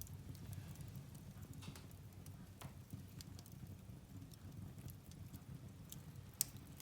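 Firewood burning in a fireplace: a low steady rumble of flames with scattered crackles, and one sharp pop near the end.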